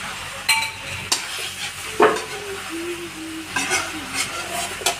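Chicken sizzling as it fries in a pot of spices while a spoon stirs it, with several sharp knocks and scrapes of the spoon against the pot, the loudest about two seconds in.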